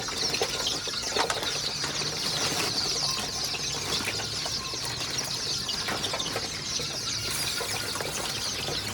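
A pen of young layer chickens feeding: a dense, continuous mix of pecking ticks and high chirping from many birds at once.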